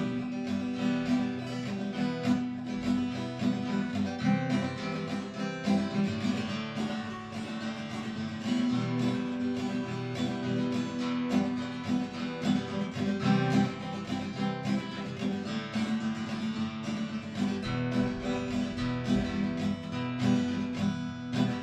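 Instrumental break in a song: acoustic guitar strummed steadily through the chords, with no singing.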